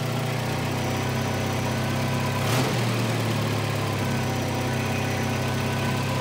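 Volvo 240's four-cylinder petrol engine idling steadily at a low base idle, around 550 RPM, as the idle screw is being set with the idle air control valve grounded out. One short click about two and a half seconds in, with a brief dip in the engine note.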